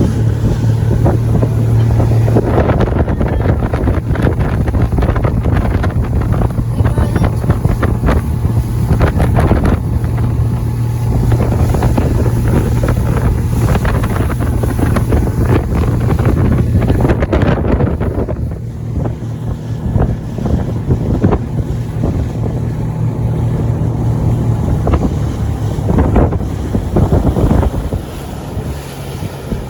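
Small motorboat's engine running at a steady low hum while under way, with heavy wind buffeting the microphone.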